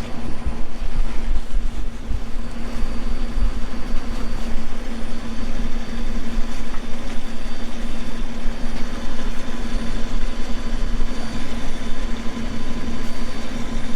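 Vehicle engine idling steadily with a low, even rumble and hum.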